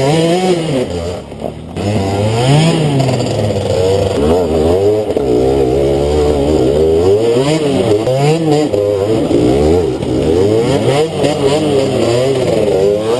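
Enduro motorcycle engine revving up and down as the throttle is worked. Its pitch rises and falls every second or so, with a brief drop in level about a second in.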